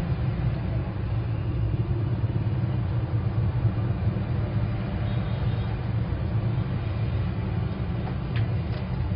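A steady low rumble, with a couple of faint ticks near the end.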